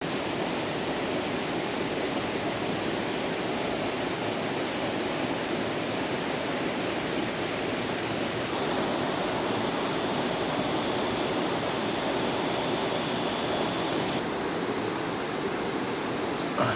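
River water rushing steadily, with a faint high steady tone through the middle of it.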